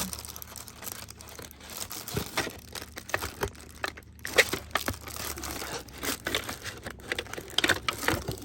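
Packaging crinkling and rustling in irregular crackles as the unboxed parts are handled.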